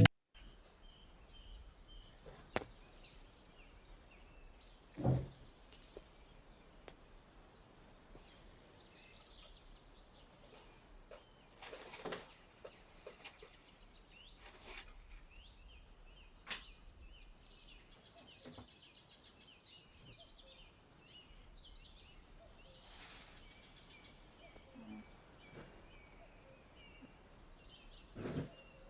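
Faint birdsong in the background, many short chirps, with a few scattered knocks and clicks, the loudest about five seconds in.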